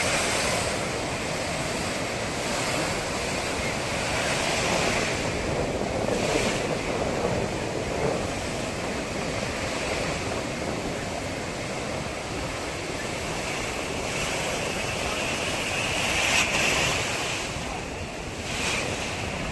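Ocean surf breaking and washing ashore in a continuous swelling rush, with wind buffeting the microphone.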